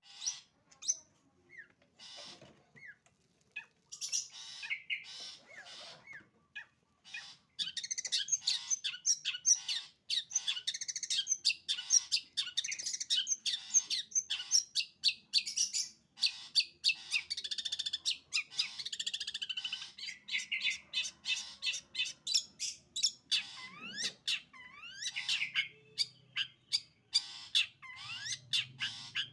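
Long-tailed shrike (cendet) singing a rapid, chattering 'sembur' song of clicking notes and short trills. It is sparse for the first few seconds, then becomes a dense, unbroken stream from about seven seconds in. Near the end come a few quick rising notes.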